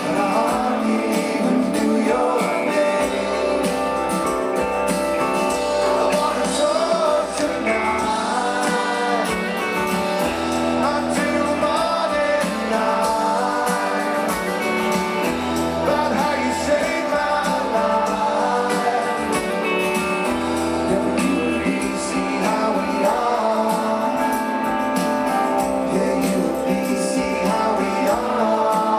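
Rock band playing live, with guitars, a bass line and a sung vocal melody.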